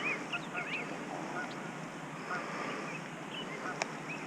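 Many birds calling over and over in short, squiggly chirps, over a steady background hiss. A single sharp click near the end.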